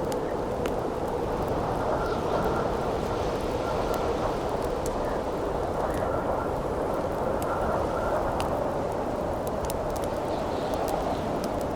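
Steady howling wind with the scattered sharp pops and crackles of a wood campfire. A faint whistle in the wind comes and goes through the middle.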